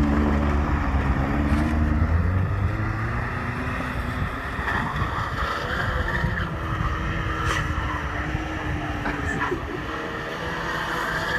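Subaru Sambar kei truck's small engine running with the revs rising and falling as it drives in circles doing donuts, with rumbling wind noise on the microphone.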